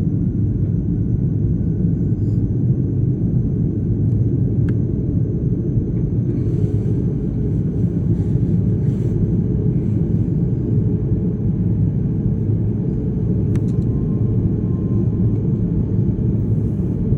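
Airbus A330-300 jet engines running at ground idle, heard from inside the cabin as a steady low rumble, with a couple of faint clicks.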